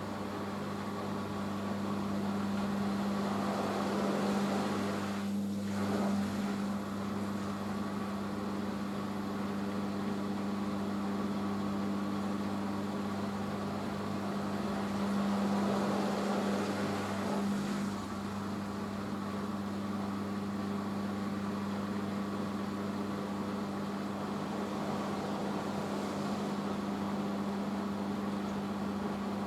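Hoover H-Wash 500 washing machine spinning its drum in a rinse spin, a steady motor hum over the whirring drum, swelling a little twice.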